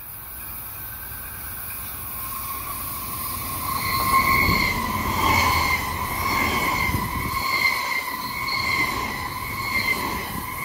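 SBB double-deck electric passenger train running slowly past along the platform, its rumble growing louder over the first few seconds. Over the rumble a high, ringing squeal in steady tones swells and fades about once a second.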